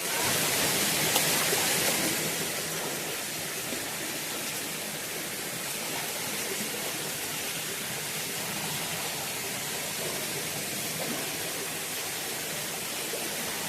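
Steady rushing of running water from a stream, a little louder for the first couple of seconds.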